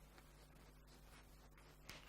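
Near silence: room tone with a faint steady low hum and one faint click near the end.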